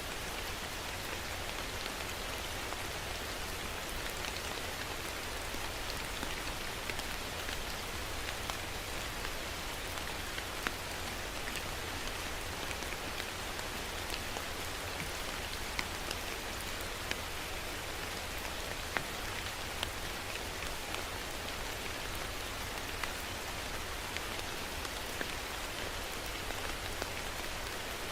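Steady rain falling, with scattered individual drops ticking sharply through the even hiss.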